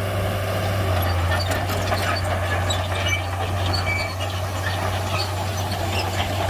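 Shantui bulldozer's diesel engine running steadily with a deep, even drone, with short high squeaks scattered over it.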